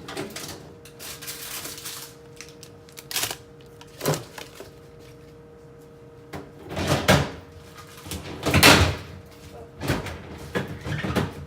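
Knocks and clatters of food containers being taken out of a refrigerator and set down on a counter, about half a dozen separate handling noises, the loudest two around the middle, over a faint steady hum.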